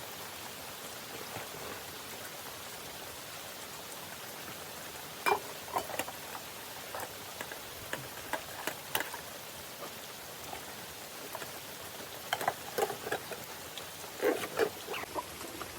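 Steady rain falling, with clusters of short sharp knocks and clicks about five seconds in and again near the end.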